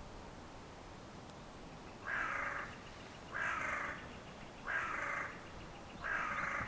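A crow cawing four times at an even pace, starting about two seconds in.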